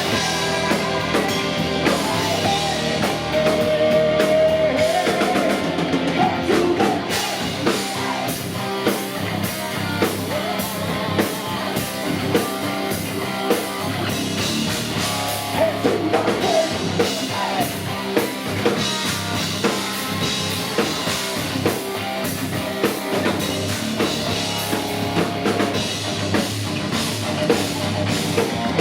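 Heavy metal band playing live: drum kit hitting in a fast, even rhythm under distorted electric guitars, with a sung melody line.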